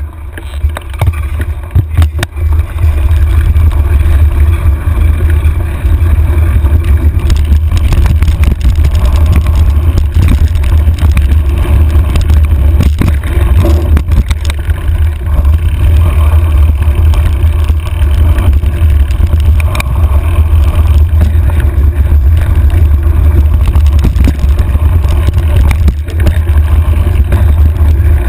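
Heavy wind buffeting on a handlebar-mounted camera's microphone as a mountain bike rides a rough dirt trail, with scattered knocks and rattles from the tyres and frame over rocks. It builds over the first couple of seconds and then stays loud and steady.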